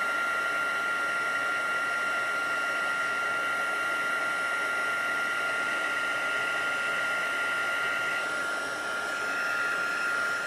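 Craft heat gun blowing hot air steadily with a high whine, melting gold embossing powder on cardstock; its sound shifts slightly about eight seconds in.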